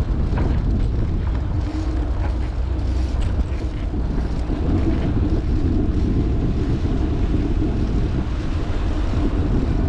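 Wind rushing over an action camera's microphone during a bicycle ride, a steady low rumble with small rattles and clicks from the moving bike.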